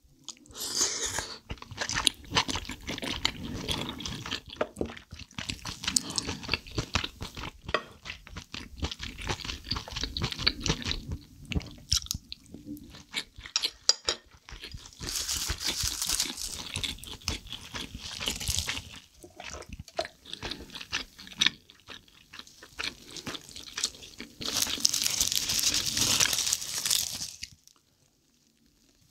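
Close-miked chewing of soy-sauce-marinated seafood: wet, crunchy bites with clicking and smacking mouth sounds, in uneven spells, stopping about a second before the end.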